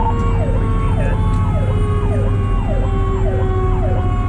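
Fire truck's electronic siren yelping in quick sweeps, about two a second, over the steady tone of a Federal Q mechanical siren slowly winding down in pitch, with the truck's engine droning underneath.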